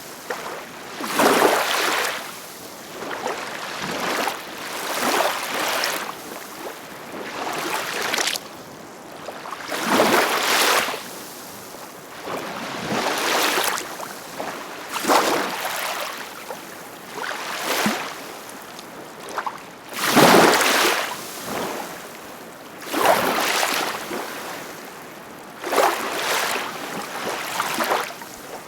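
Ocean waves breaking and washing in, a hissing surge that swells and fades every two to three seconds.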